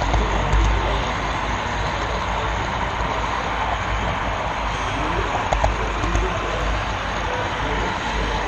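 Steady rolling rumble and hiss of a model railroad camera car running along the track, with a couple of short clicks about five and a half seconds in.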